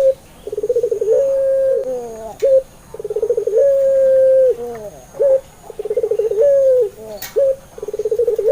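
Puter pelung (Barbary dove) cooing in repeated phrases about every two and a half seconds. Each phrase is a fast rolling trill that runs into one long drawn-out coo. There is a single sharp click near the end.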